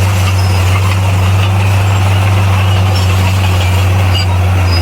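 Bulldozer's diesel engine running with a steady, unbroken low drone.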